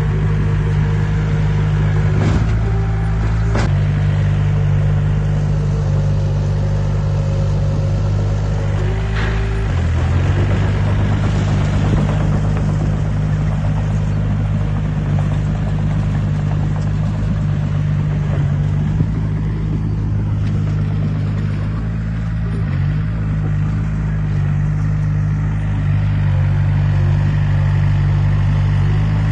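Heavy diesel engine of earthmoving machinery running steadily under load, its pitch shifting about ten seconds in. A few sharp metallic clanks come in the first ten seconds.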